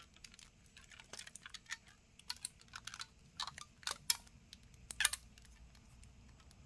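Scattered light clicks and taps from hands handling a smartphone and fitting a rubber band around it to clamp a freshly glued screen. A few sharper clicks stand out about one, two, three and a half, four and five seconds in.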